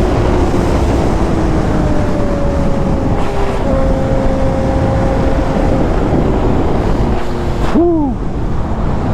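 Sportbike engine running at speed under heavy wind roar on the helmet-mounted microphone, its note holding nearly steady, with a brief rise and fall in engine pitch near the end.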